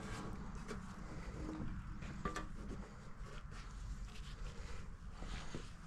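Faint, scattered clicks and taps of hand work on engine parts, over a low steady hum.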